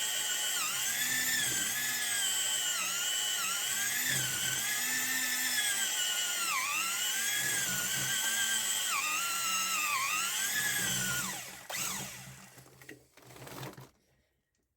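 Electric drill running at speed, its whine sagging in pitch again and again as the bit loads up drilling an anchor hole. Near the end the trigger is released and the motor spins down to a stop.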